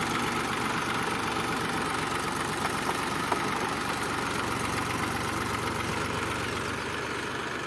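Tractor's diesel engine running steadily, getting a little quieter near the end.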